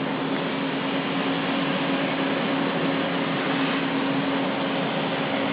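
CNC cutting machine running: a steady hiss with a low, steady hum through it.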